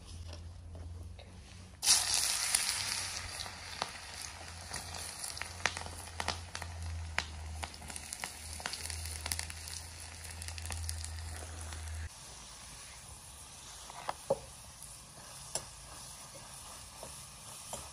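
Vegetables tipped into hot oil in an iron karahi over a wood fire, starting with a sudden loud sizzle about two seconds in. They then fry steadily, with sharp clicks and scrapes of a ladle stirring in the pan.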